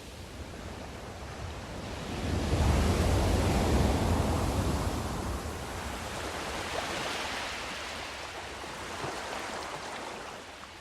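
Sea waves washing: one big wave surges up about two seconds in with a deep rumble and slowly ebbs away, and a smaller swell follows before it fades.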